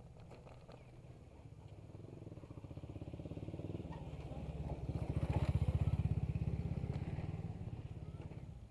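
A small motorcycle engine passing by, growing louder, peaking about halfway through, then fading away.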